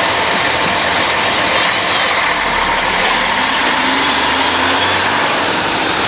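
Steady city street traffic noise, a dense even rush of passing vehicles, with a faint low engine hum near the middle.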